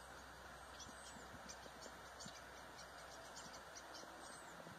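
Near silence: faint outdoor air with scattered distant bird chirps and a few short high whistles.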